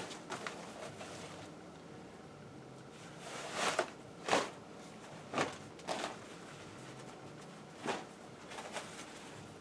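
Damp cotton tie-dye T-shirt being unfolded and handled, with a few short rustles and swishes of fabric in the middle of an otherwise quiet stretch.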